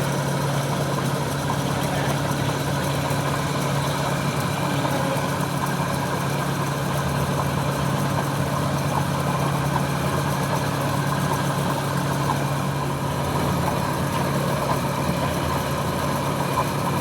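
A machine running steadily at an even pace, with a constant low hum and no change in speed.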